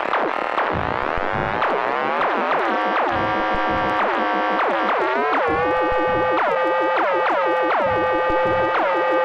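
Erica Synths Perkons HD-01 drum synthesizer playing an electronic pattern: pitched, ringing hits that each drop quickly in pitch, repeating several times a second over low kick-drum thumps.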